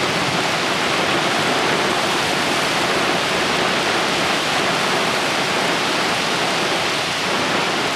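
Torrential rain from a severe thunderstorm downpour, with strong wind: a loud, steady, unbroken hiss of falling water.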